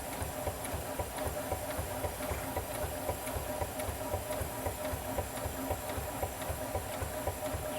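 5/8-scale Wood Brothers steam traction engine running, with a fast, even beat of low pulses over a steady hum.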